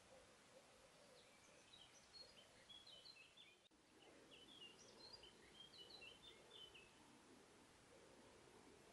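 Faint birdsong: a small bird singing quick runs of short, high chirping notes, in two phrases, over a quiet background hiss.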